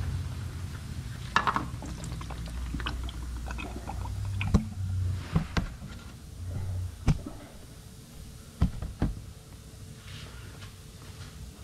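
Engine oil pouring and dripping from the oil filter mount into a drain pan, with several sharp clicks and knocks of parts being handled in between.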